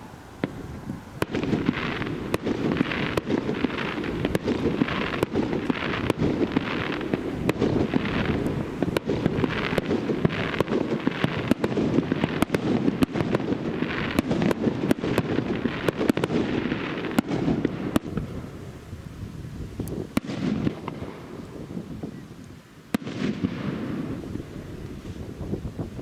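Fireworks going off in a dense, continuous barrage: sharp cracks and crackling bursts over a steady rumble, coming in quick succession about twice a second, then thinning out near the end.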